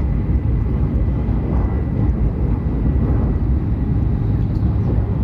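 Cabin noise of an E7/W7-series Hokuriku Shinkansen train running at speed: a steady low rumble with a faint, thin high whine held throughout.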